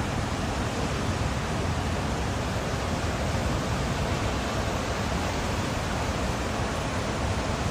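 Steady rushing noise of heavy water, as of pouring rain or floodwater, unbroken and even in level.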